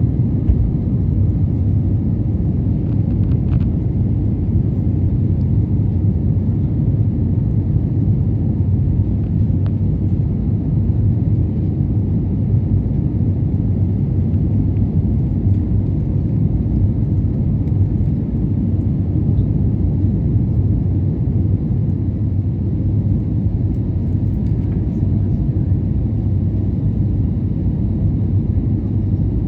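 Steady low rumble of an airliner's jet engines, heard from inside the cabin.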